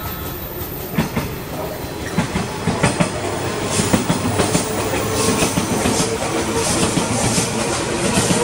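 JR East 185 series electric multiple unit running past, its wheels clacking over rail joints and points in a quickening run of clicks over a steady rumble of the passing carriages.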